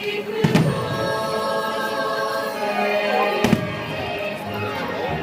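Two firework shells bursting about three seconds apart, each a sharp bang with a low rumble after it, over the show's music.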